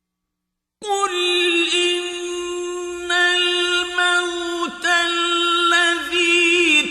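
Quran recitation in the melodic mujawwad style: a solo male voice chanting unaccompanied with long held notes and ornamented turns. It comes in about a second in after a brief silence.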